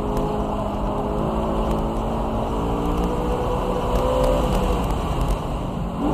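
BMW E92 M3's 4.0-litre V8 under load on track, its pitch climbing slowly for about four seconds before dropping away as the throttle comes off, over heavy road and wind rumble.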